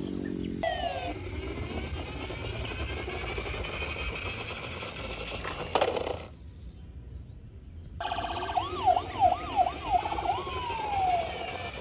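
Electronic toy siren, likely from a toy emergency vehicle, sounding in a quick series of rising-and-falling whoops followed by a longer falling tone near the end. A low rumble runs underneath, and the sound drops away briefly in the middle.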